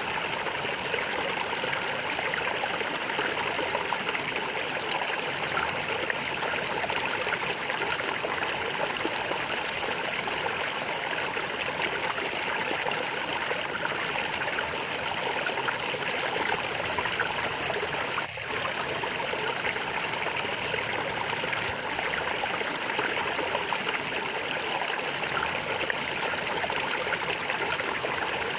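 Flowing water gurgling steadily, with one momentary dip in level about two-thirds of the way through.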